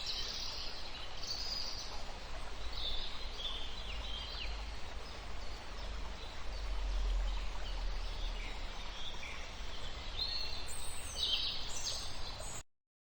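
Short, high-pitched chirping animal calls, repeated irregularly and bunched together near the end, over a low steady rumble.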